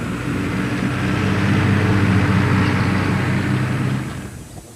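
A motor vehicle's engine passes by, growing louder to a peak about two seconds in and then fading away.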